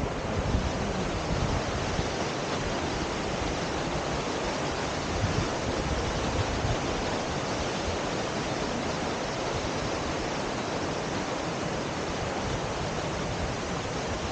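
Steady rush of a 55 m plunge waterfall. A few low buffets of wind on the microphone come near the start and again about five seconds in.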